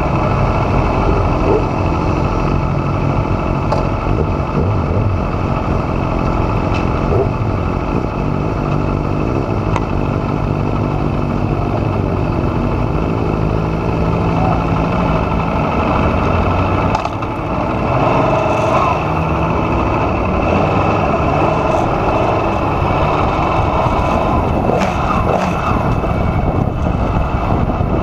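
Aprilia Tuono V4R's V4 engine running hard on track, its pitch stepping up and down with throttle and gear changes, with a brief drop in loudness about two-thirds of the way through.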